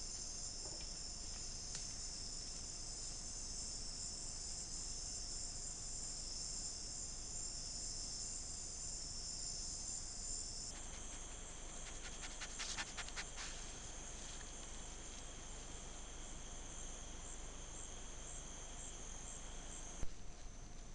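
Rainforest insect chorus of crickets and katydids, a dense steady high shrilling. About halfway through it changes abruptly to a different chorus with a steady lower whine, and a quick run of crackling clicks follows a second or two later.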